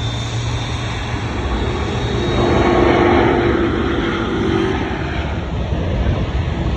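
Jet airliner passing: the engine noise swells to a peak about three seconds in, then eases away.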